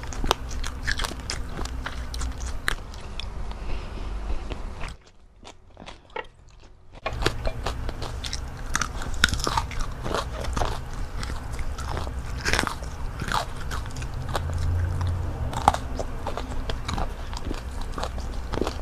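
Close-up eating sounds: crunchy bites and chewing of breaded fried calamari and rice, with many short crunches and mouth clicks. There is a brief quieter stretch about five seconds in.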